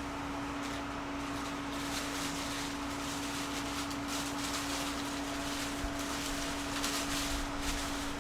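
Cabin of a JR Series 211-5000 electric commuter train standing at a station: a steady hum at one pitch from the idling train's onboard equipment, over a light hiss.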